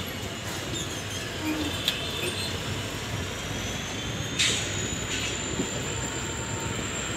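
Passenger train coach running on the rails, a steady rumble. About three seconds in, a thin, high wheel squeal comes in and holds, with a sharp knock just after it.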